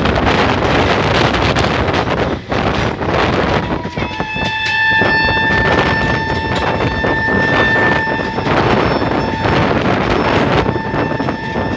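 Wind buffeting the microphone over the running noise of a moving passenger train. About four seconds in, a steady high-pitched whine starts and holds for about four seconds, then returns near the end.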